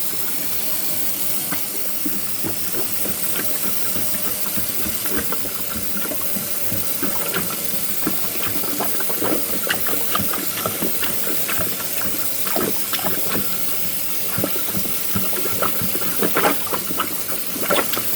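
Water running steadily into a clogged sink that will not drain, with scattered small splashes and pops that come more often near the end.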